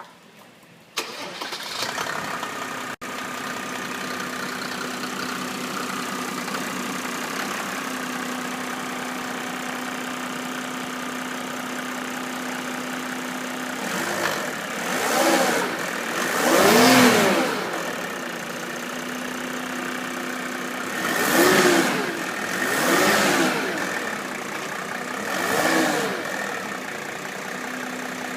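Mercedes OM606 three-litre straight-six turbodiesel starting about a second in and settling to a steady idle. In the second half it is revved up and let fall back several times, each a short rise and fall in pitch.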